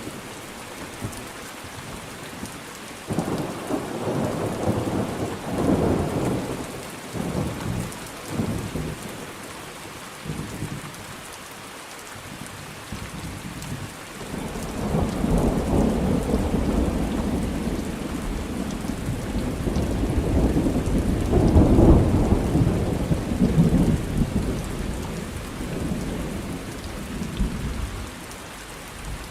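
Thunderstorm: steady rain falling, with thunder rumbling in short rolls a few seconds in and a long, louder roll building from about halfway, loudest about three quarters of the way through.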